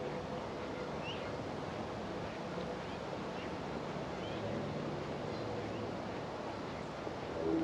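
Outdoor park ambience: a steady hum of distant road traffic with a few faint, short bird chirps. A vehicle engine grows louder near the end.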